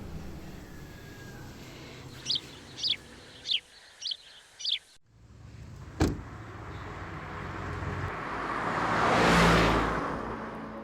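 Outdoor ambience with a bird giving five short, quick chirps, followed after a cut by a rush of noise that swells and fades away.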